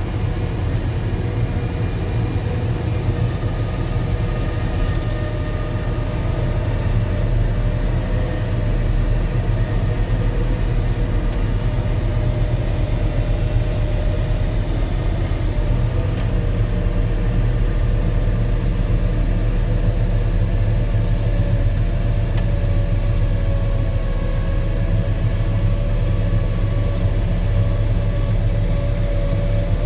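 Volvo L70H wheel loader working a snow blower, heard from inside the cab: a loud, steady diesel engine drone with a deep hum and a faint higher whine. It grows slightly louder about seven seconds in and then holds.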